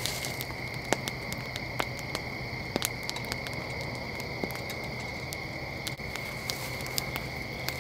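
Night insects, crickets, keeping up a steady high continuous trill, with scattered sharp clicks and crackles over it.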